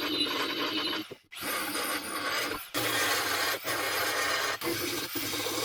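Metalworking on a car body's steel sill repair: a steady rasping scrape of abrasive work on sheet steel, broken several times by sudden brief dropouts.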